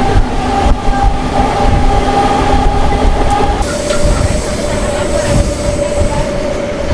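MEMU electric train running on the track, heard from on board: a steady low rumble of wheels on rail with a thin whine that drops in pitch a little past halfway, as the train slows for its next halt.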